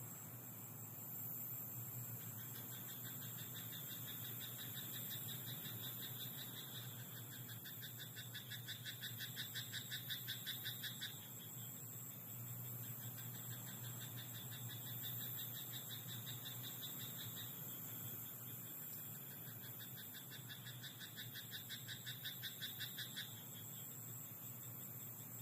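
Frogs croaking in a rice paddy: long runs of rapid, evenly pulsed calls that grow louder and then stop. There are two choruses of several seconds each, the first ending about eleven seconds in and the second near the end, over a steady low hum.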